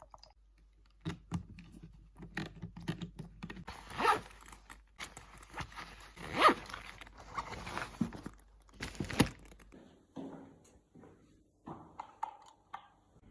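Handling noises: a run of clicks, knocks and short rasping sounds like things being moved about and zipped, with three louder rasps in the middle.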